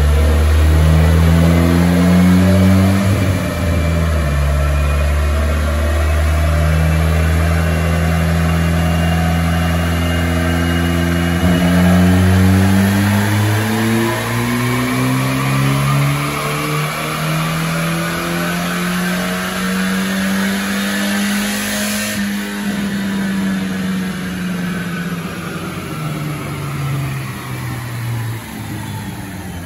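The 1983 Volvo 240 Turbo's B21FT turbocharged four-cylinder, breathing out through a 2.5-inch stainless exhaust with a Cherry Bomb muffler, makes a full-throttle pull on a chassis dyno with its boost turned up to about 15 psi. The engine note climbs steadily for about twenty seconds. Then there is a brief burst of noise as the throttle closes, and the engine winds down.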